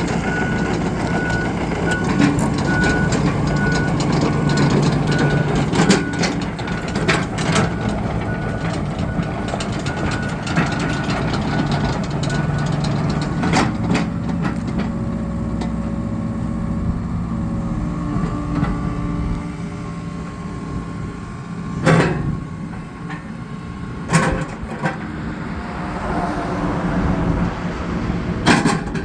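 John Deere 75D excavator's diesel engine running, with a repeated high beeping alarm for about the first thirteen seconds. Several sharp clanks ring out along the way, and the engine settles lower partway through.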